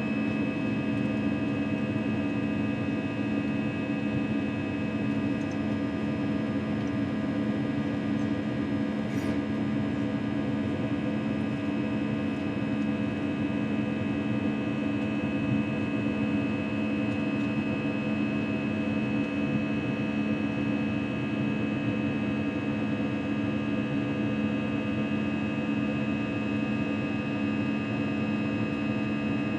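Airbus A321 cabin in flight: a steady engine drone with several fixed hum tones over constant airflow noise.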